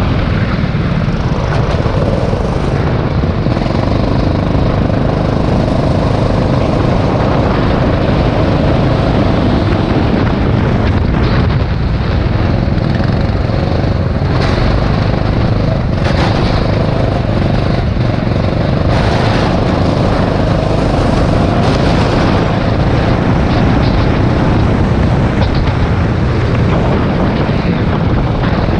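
Rental go-kart's small engine running steadily at racing speed, over a constant rush of noise.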